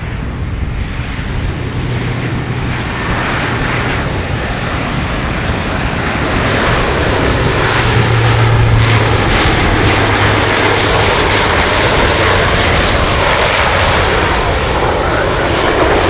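Fixed-wing aircraft engines running, growing louder over the first half and then holding steady, with a faint high whine that fades about halfway through.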